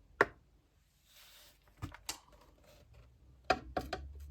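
Light clicks and knocks of a computer monitor being handled and set onto a weighing scale, with a brief rustle about a second in and a quick run of knocks near the end.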